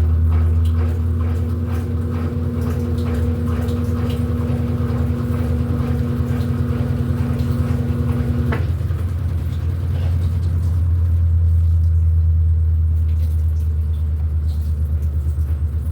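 Electrolux LED14 14 kg top-loading washing machine running its quick cycle, a steady low motor hum. About eight and a half seconds in, a higher hum cuts off with a click, and the low rumble carries on with a faint pulsing beat.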